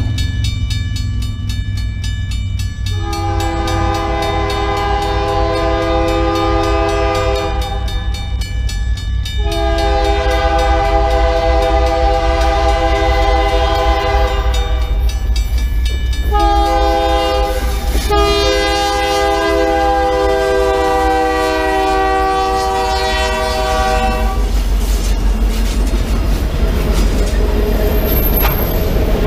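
Locomotive air horn sounding the grade-crossing signal of two long blasts, a short one and a long one, the warning of a train approaching a road crossing. A steady low rumble of the train runs underneath.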